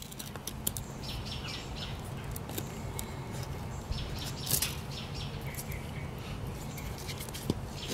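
Birds chirping faintly over a steady low outdoor hum, with a few soft knocks and clicks.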